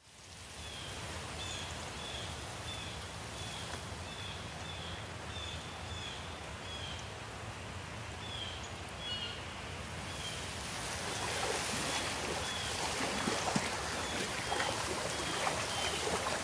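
Outdoor morning ambience: a bird repeats a short high chirp about twice a second over a steady hiss of wind or water. After about ten seconds the chirping thins out and the hiss grows a little, with faint scattered ticks.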